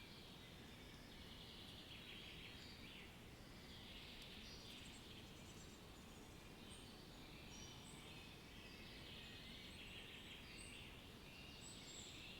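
Faint nature ambience: many short bird chirps and trills over a low, steady background hiss.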